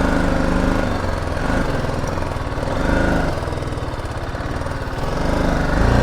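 BMW G 310 GS single-cylinder motorcycle engine running at low speed, its pitch rising and falling with the throttle a few times.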